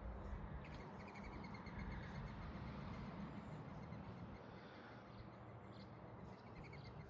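Small birds chirping in quick, rapid trains of high notes over a faint, steady low rumble and outdoor noise.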